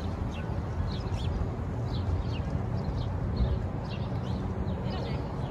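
Small birds chirping: many short, quick, falling chirps, several a second, over a steady low rumble.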